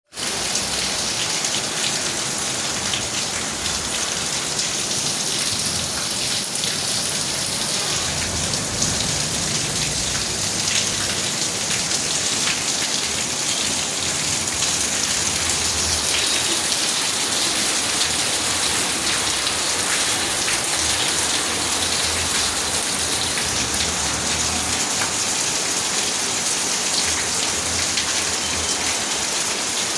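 Steady heavy rain falling and splashing on surfaces, a dense even hiss with many small drop ticks.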